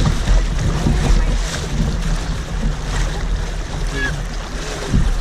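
Rushing, churning water of river rapids around a kayak, with wind buffeting the microphone as a heavy low rumble.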